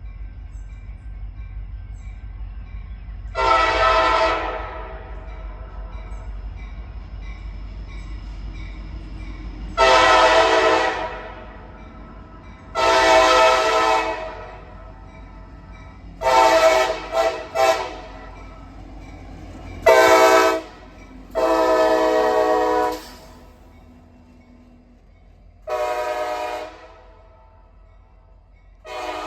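Diesel freight locomotive air horn sounding a series of blasts. The middle ones run long, long, short, long, the grade-crossing warning pattern, with further blasts before and after. A low rumble underneath fades about two-thirds of the way through.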